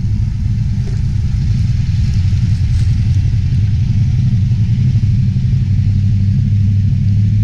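The LS1 V8 engine of a Nissan Patrol 4WD running at low revs with a steady low rumble as the vehicle crawls over a steep, rocky track.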